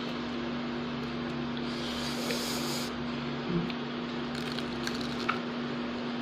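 Biting into and chewing a fried bean-sprout spring roll (lumpiang togue): small crisp clicks and wet mouth sounds from about three and a half seconds on, over a steady low hum. A brief hiss comes about two seconds in.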